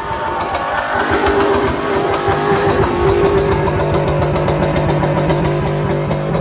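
GM LS V8 truck engine revving up and held at high revs with a steady drone.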